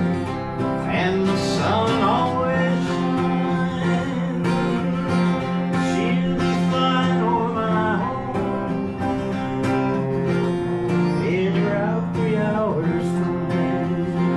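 Acoustic guitars playing an instrumental break in a country-folk song: steady strummed chords under a lead melody whose notes bend and slide in pitch.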